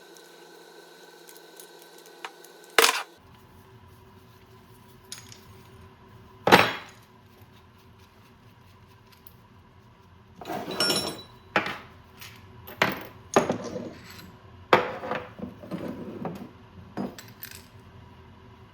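Hand tools and metal linkage parts clinking and knocking as they are handled on a workbench: a sharp knock a few seconds in, another about halfway, then a run of clatter through the second half.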